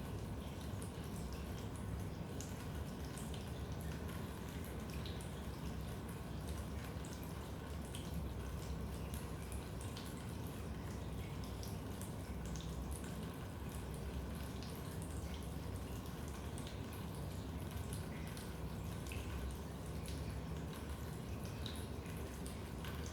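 Leaking basement water pipes: a steady low rush under constant scattered drips and ticks, in a small echoing room.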